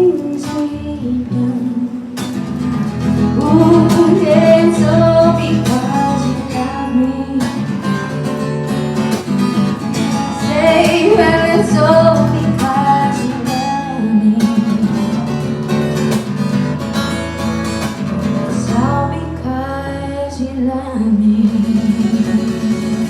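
Acoustic guitar strummed and picked with a voice singing a melody over it: a live acoustic song.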